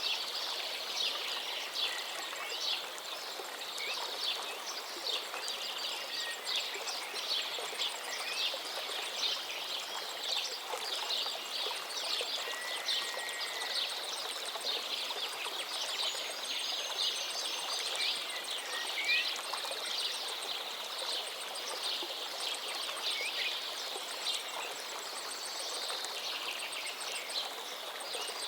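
A forest river flowing steadily, with birds singing over it: many short high chirps and a few clear whistled notes.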